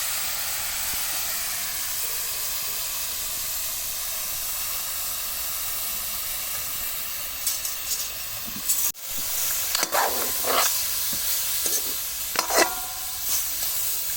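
Marinated chicken sizzling in a hot pan with no oil added, a steady hiss. From about nine seconds in, a spoon scrapes and clinks against the pan several times as the chicken is stirred.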